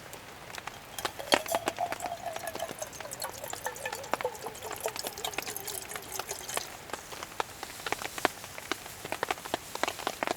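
Rain falling, with irregular drops ticking one after another. A faint tone slides slowly lower for a few seconds in the first half.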